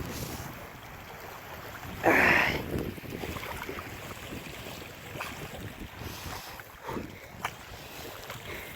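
Wind buffeting the microphone over the wash of water around a small boat under way, with one louder rush of noise about two seconds in.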